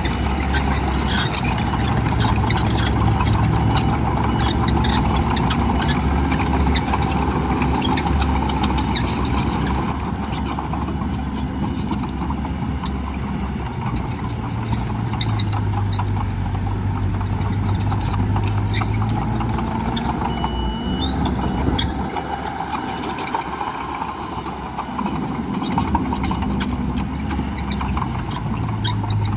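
Heavy diesel earthmoving machinery running, its engine note rising and falling as it works, with many small clicks and knocks throughout.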